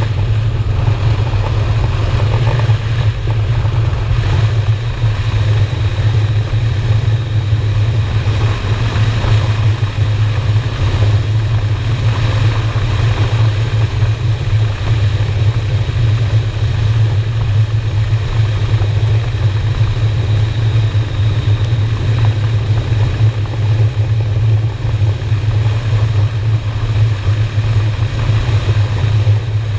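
Honda Shadow V-twin motorcycle engine running at a steady cruising speed, heard from on the bike, with a steady drone and no change in pitch.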